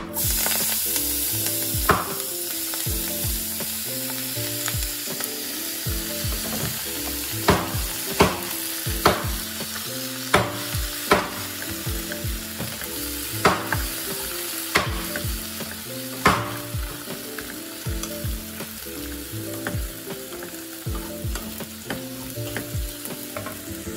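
Chopped leafy greens hitting hot oil in a wok and frying: a loud sizzle that starts abruptly as they go in, then eases to a steady frying hiss. A wooden spatula stirs them, with scattered knocks and scrapes against the pan.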